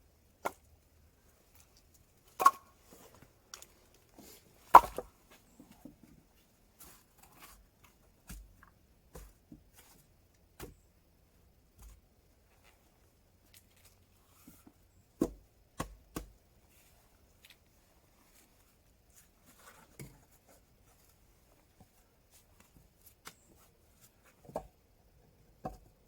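Irregular sharp knocks and clicks. Two loud ones a few seconds in ring briefly, and fainter scattered knocks follow, including a quick group of three a little past the middle.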